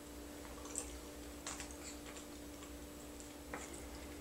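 Faint eating sounds: a few soft mouth clicks and smacks while chewing potato salad, three in all, over a steady low hum.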